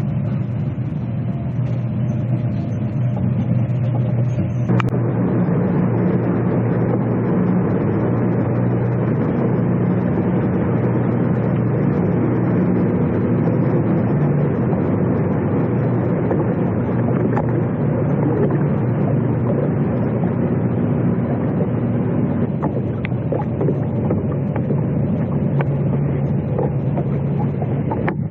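Boat motor running steadily under way, with a wash of wind and water noise over it. The engine note fills out about five seconds in.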